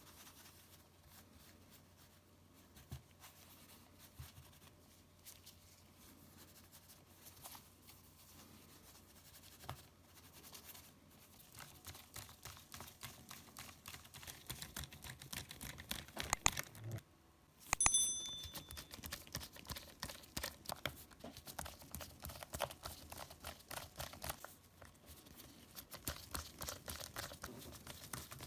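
Small tools and parts being handled on a Nintendo Switch during disassembly: a run of light clicks, taps and scratches that gets busier about halfway through, with one sharper click and a brief metallic ring about two-thirds in.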